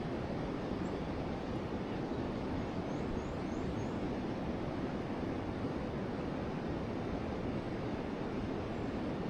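Forest river water rushing steadily. About three seconds in, a bird gives four faint, quick high chirps.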